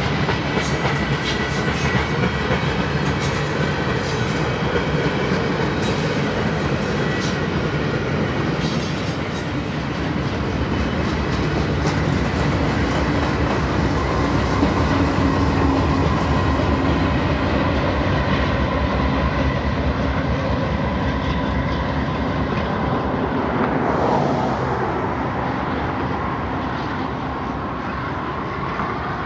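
Freight train of loaded flatcars rolling past, the cars rumbling and the steel wheels clicking over rail joints. The rumble eases off a little in the last few seconds.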